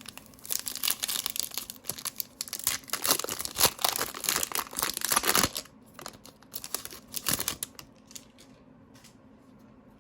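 Trading-card pack wrapper being torn open and crinkled: a long run of crackling from about half a second in to five and a half seconds, then a shorter burst around seven seconds.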